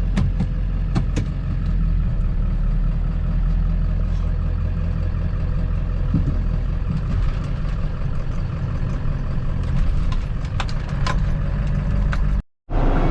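Ford F250 pickup's engine running steadily while driving, a low even drone with a few light clicks. The sound cuts out for a moment near the end.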